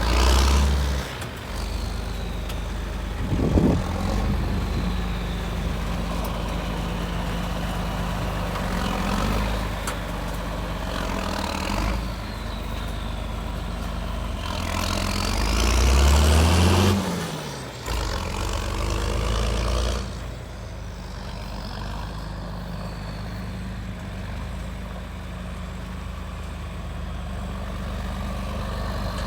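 1972 John Deere 4320 tractor's turbocharged six-cylinder diesel engine running steadily. About halfway through it revs up louder and then falls back.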